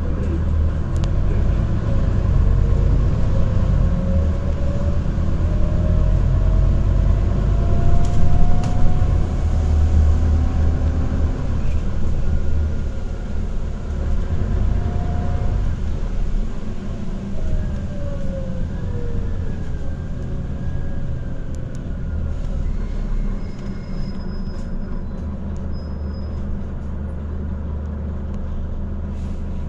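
Scania Citywide city bus running, its engine pulling with a whine that rises in pitch as it gathers speed, then falls as the bus slows. It settles into steadier, quieter running near the end.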